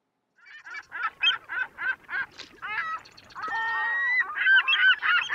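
Birds calling: a quick run of short calls, about three a second, then several longer overlapping calls from about three seconds in.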